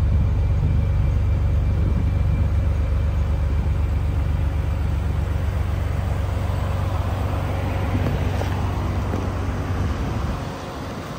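Nissan Skyline GT-R's RB26DETT twin-turbo straight-six idling through a NISMO Spec Pro exhaust, a steady, low, pulsing rumble. It drops away sharply about ten seconds in.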